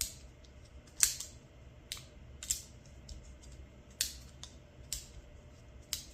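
3DX X3 floating slider, a fidget slider with 3D-printed plates, being slid back and forth by hand, giving sharp plastic clicks as the plates snap into place, about one a second at an uneven pace.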